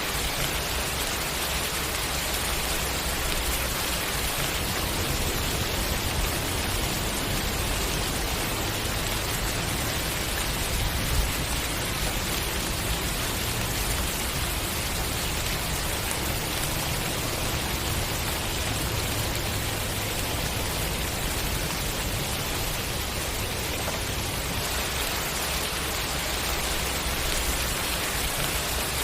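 Steady rain falling and pattering on a surface, an even hiss with no change in strength, and a single slightly louder drop or tap about eleven seconds in.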